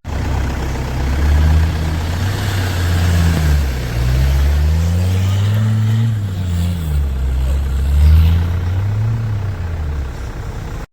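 Off-road 4x4 vehicle engine revving and working under load, its low note rising and falling in pitch several times.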